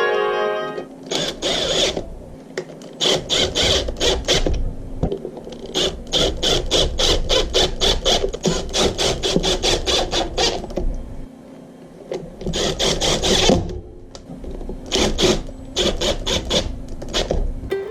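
Repeated rasping, scraping strokes of a hand tool working on an e-scooter wheel, about three a second, in several runs broken by short pauses.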